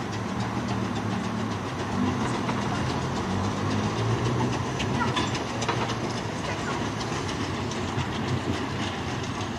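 A museum-railway train running on the track: a steady rumble with sharp wheel-on-rail clicks scattered through it.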